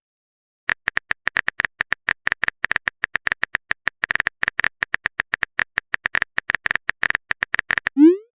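Keyboard typing sound effect: a rapid run of short, bright clicks, several a second, starting about a second in and stopping just before the end.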